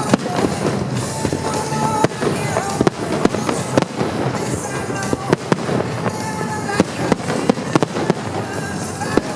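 Aerial fireworks going off in rapid, irregular bangs and crackles over the show's accompanying music.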